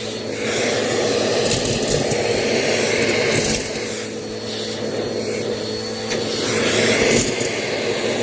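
Bissell vacuum cleaner running steadily, its whooshing noise swelling and easing as it is pushed back and forth, with scattered small ticks and rattles as it sucks up small rubber bands.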